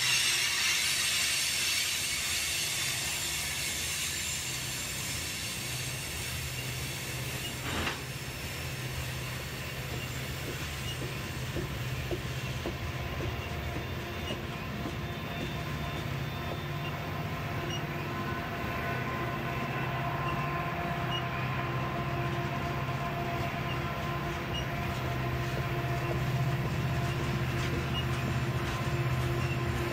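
Tank cars of a freight oil train rolling slowly past on a curve, a steady rumble of steel wheels on rail with thin squealing tones from the wheels. A single sharp knock about eight seconds in.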